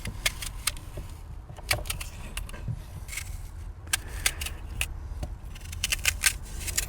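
Rummaging among kitchen things: a string of sharp clicks, clinks and light rattles as utensils and containers are handled, over a low steady rumble.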